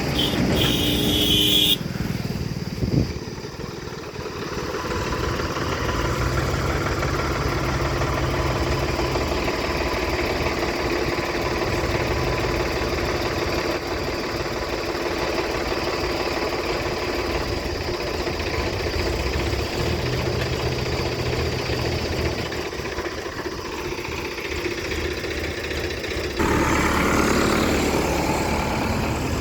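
Tractor engines running steadily at idle, with the engine sound getting louder about three seconds before the end.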